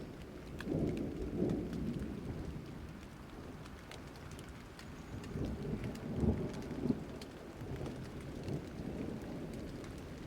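Steady rain falling with scattered drop ticks, under low rolling thunder that swells twice, about a second in and again around six seconds.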